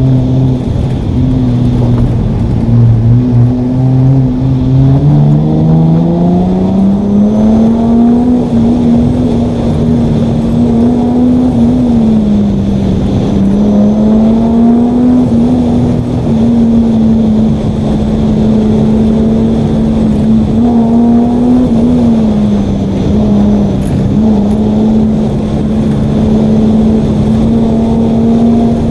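Datsun 280Z's 2.8-litre straight-six engine driven hard during an autocross run. About four seconds in, the revs climb steadily for several seconds, then rise and fall repeatedly as the car is driven through the course.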